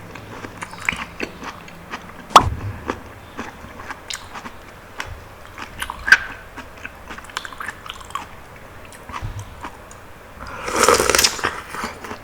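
Close-miked mouth sounds of someone biting and chewing soft, juicy fruit, with many small wet clicks and a sharp click about two seconds in. A longer wet, noisy swell comes near the end.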